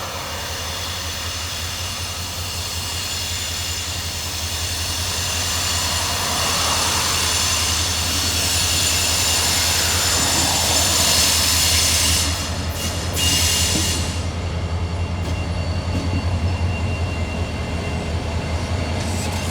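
Freight train rolling past with a steady low rumble and high, sustained squealing from the wheels. It grows louder toward the middle.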